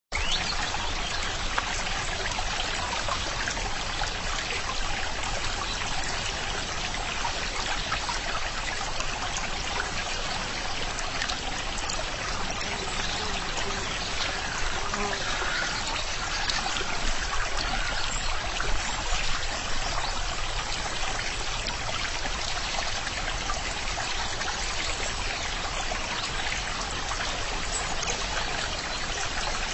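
Water of a stream trickling and running steadily.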